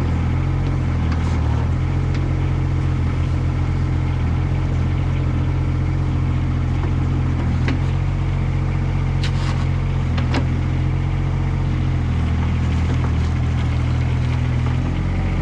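Daewoo Solar 015 mini excavator's small three-cylinder diesel engine running steadily, with a few sharp knocks between about eight and ten seconds in.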